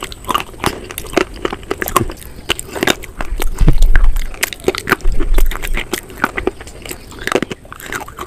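Close-up crunching and chewing of slate bars with cream paste: many sharp, crackly bites and wet mouth sounds, with a few low thuds around the middle.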